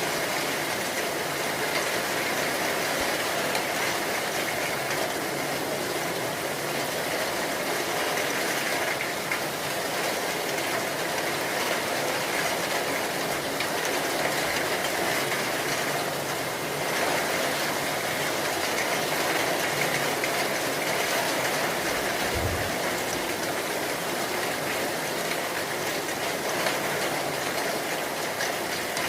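Heavy rain falling steadily: a dense, even hiss with no break.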